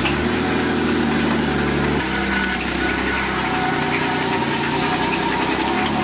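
Mazda 6 V6 engine idling just after a start, dropping to a lower idle about two seconds in. It runs badly after an engine failure.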